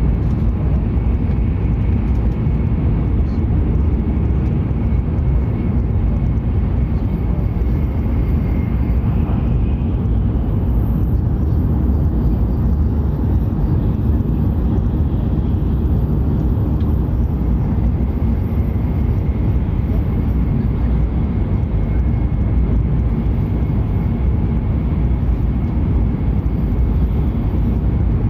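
Hokuriku Shinkansen train running at speed, a steady low rumble of running noise with a faint high tone above it, heard from a passenger seat.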